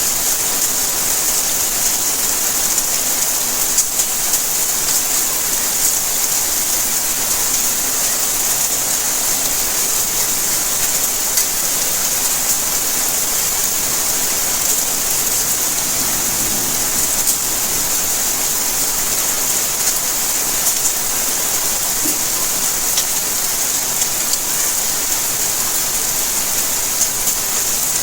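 Steady rainfall: an even hiss with many small drops ticking on surfaces.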